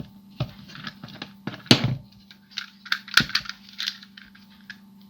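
Small screwdriver undoing a screw in a plastic toy: irregular scraping and clicking, with two sharper knocks, one a little under two seconds in and another about a second and a half later.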